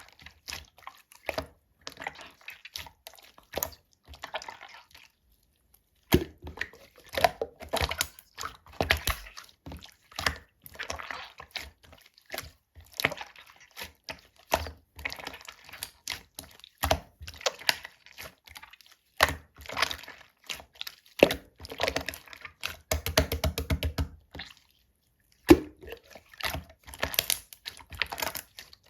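Clear slime being squished and pressed by hand: an irregular run of clicks and pops that falls silent twice for about a second.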